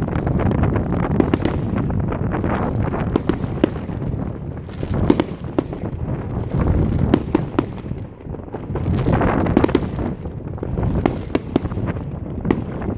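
Fireworks display: a rapid series of bangs and crackling bursts from shells going off, over a continuous low rumble.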